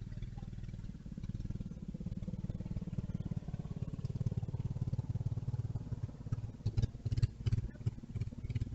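Small mini bike engine running steadily, its sound turning choppy and uneven for the last couple of seconds.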